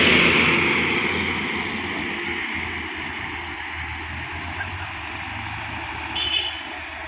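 A vehicle passes close on the road, loudest at the start and fading over the next few seconds, over a steady low engine hum. There is a brief high-pitched beep about six seconds in.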